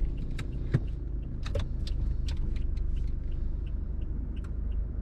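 A car in motion: steady low engine and road rumble, with scattered light clicks and rattles.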